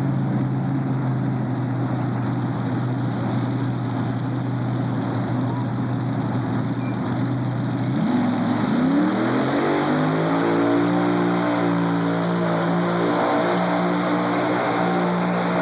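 Multi-engine modified pulling tractor's alcohol-burning engines idling steadily, then about eight seconds in revving up in a rising sweep and holding at a higher steady speed.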